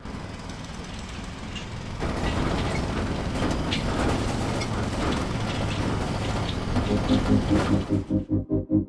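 Steady machinery rumble with irregular clatter and clicks, getting louder about two seconds in. Near the end, synthesizer music with a pulsing beat comes in and takes over.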